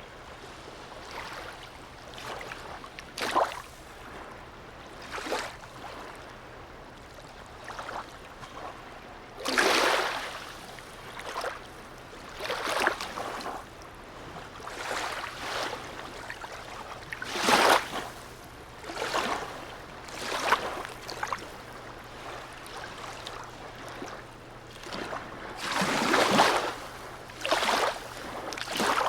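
Small sea waves lapping and splashing against the harbour edge in irregular slaps every second or two, a few louder than the rest, over a faint steady low hum.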